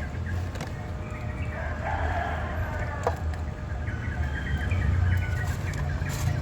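Domestic fowl calling, in a drawn-out crow-like call lasting several seconds, over a steady low rumble.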